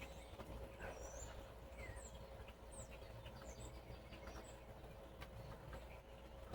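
Faint, scattered chirps of small birds, short high calls a few times a second apart, over quiet outdoor background noise.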